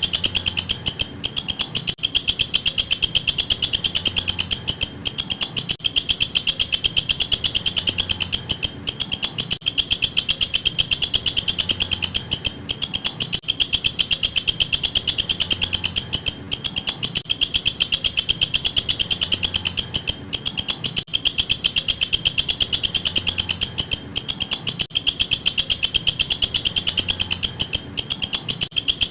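Walang kecek katydid calling: a fast, unbroken train of sharp, high-pitched ticks, stopping for a moment every few seconds and then going on.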